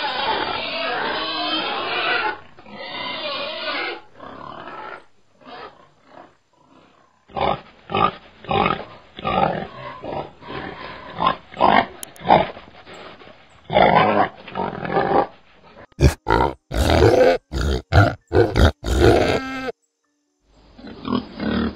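Domestic pigs grunting: short, irregular grunts through most of it, a dense stretch of overlapping calls in the first couple of seconds, and a quick run of louder grunts near the end.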